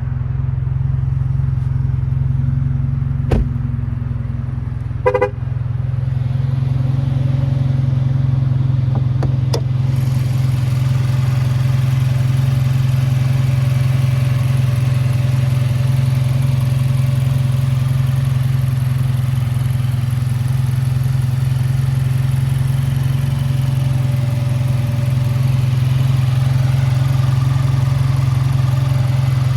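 2014 ATS car engine idling steadily. A short beep sounds about five seconds in, with a couple of sharp clicks around it.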